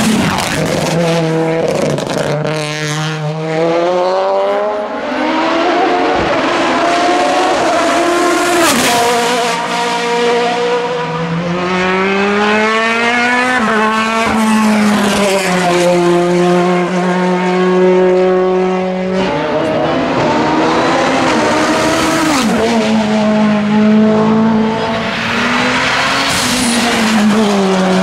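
Hillclimb race car's engine under hard acceleration. Its note climbs, drops sharply and climbs again several times, and holds steady for a few seconds midway.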